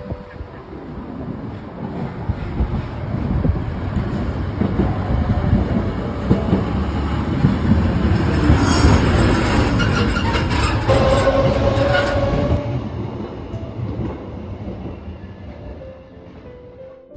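A train passing: a rumble swells to a peak about nine seconds in and then fades away, with a brief wheel squeal shortly after the peak.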